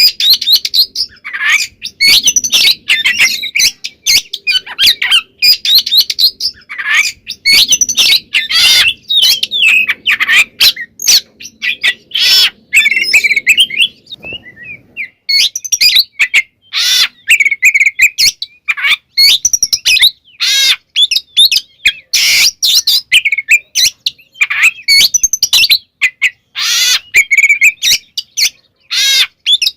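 Oriental magpie-robin (kacer) singing loudly in rapid, ever-changing phrases full of mimicked notes ("full isian"), with many short clicking notes mixed in. It breaks off briefly around the middle, then carries on.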